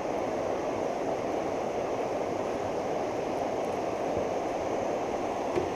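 Fast floodwater in a creek rushing past, a steady, even wash of water noise. A light knock comes near the end.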